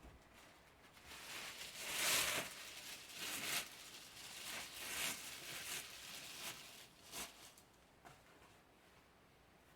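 Rustling and scraping of shipping-box packaging as the generator is lifted out and unwrapped: a series of noisy swishes, the loudest about two seconds in, dying away near the end.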